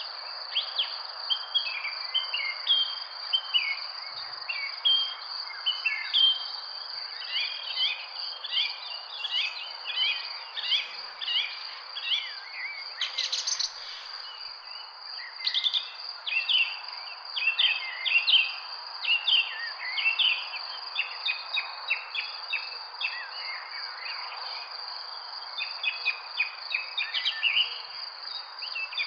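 Many small birds chirping and twittering in a busy chorus over a continuous high, steady insect drone, with a soft background hiss of outdoor noise.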